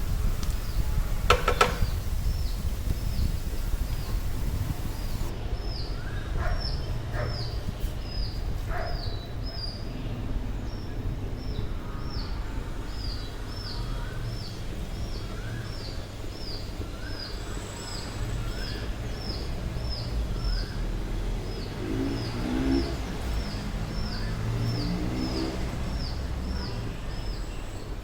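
A bird chirping over and over, about two calls a second, over a steady low hum.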